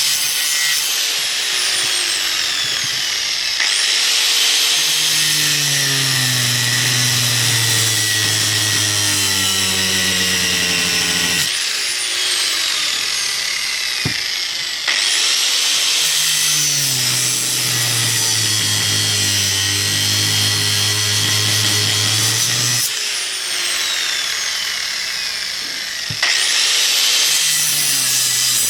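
Electric power tool cutting into a metal turbocharger part. Its motor whines up to speed three times, runs about eight seconds each time with its pitch sagging under the cut, then shuts off and winds down.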